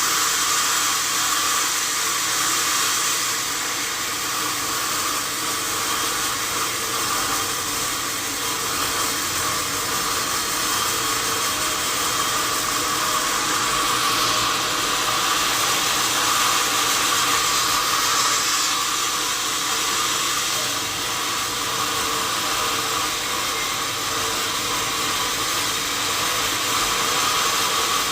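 Sawmill saw running steadily: a continuous whirring hiss with no breaks or changes.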